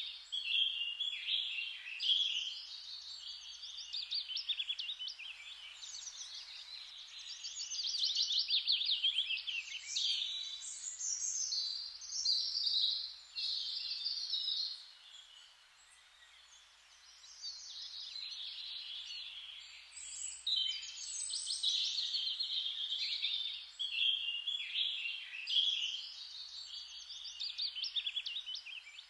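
Several songbirds singing at once in a dense chorus of rapid trills and chirps, easing off briefly about halfway through.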